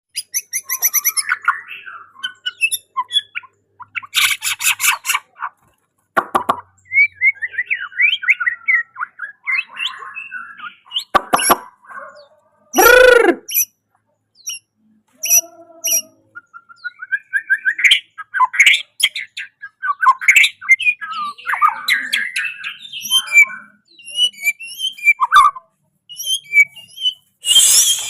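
White-rumped shama (murai batu) singing a long, varied song: many short phrases of clear whistles, rapid trills and harsh chattering notes, with brief pauses between them.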